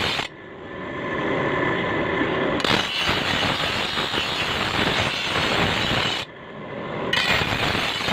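Loud, dense, harsh metalworking noise from the repair of a toka chaff-cutter blade: a rattling, grating racket full of quick impacts. Twice it drops suddenly to a duller, quieter sound, near the start for about two seconds and again near the end for about a second, each time returning abruptly.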